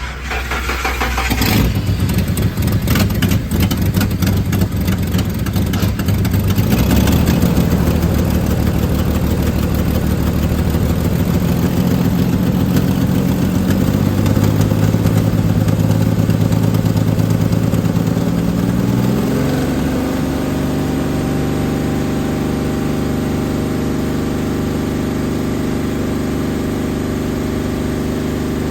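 2005 Ford F-150's 4.2 L V6 engine cranking and catching about a second in, then running at a raised, unsteady idle. About two-thirds of the way through, the idle drops to a lower, steadier speed.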